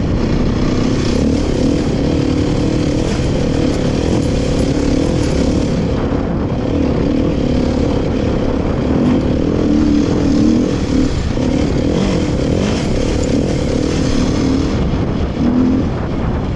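Dirt bike engine running under way, its pitch rising and falling as the throttle is worked, with a heavy low rumble underneath.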